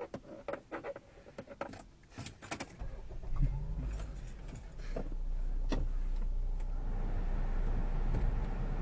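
Car keys jangling with a few clicks, then about three seconds in a Honda car's engine starts and settles into a steady idle.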